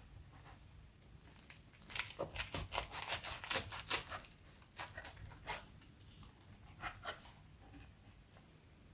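Packaging being torn and crinkled: a dense run of crackling rips starting about a second in and lasting about three seconds, then a few shorter crinkles.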